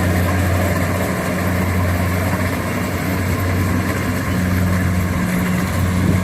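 Kubota DC70 combine harvester's diesel engine running steadily as a constant low hum, with the machine's threshing and working noise over it.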